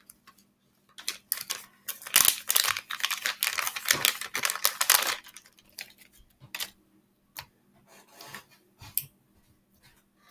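Plastic slime container and packaging being handled: about four seconds of crinkling and rustling, then scattered light clicks and taps.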